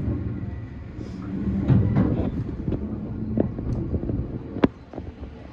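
E235-1000 series electric train running on the track: a steady low rumble with scattered clicks and knocks from the wheels and rails, and one sharp click near the end that is the loudest.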